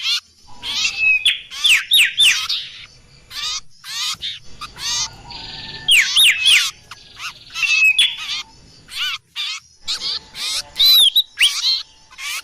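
Bird-trapping lure recording (suara pikat) of small birds calling excitedly: a dense, busy chatter of rapid high chirps and short down-swept whistles, coming in loud clusters with brief gaps.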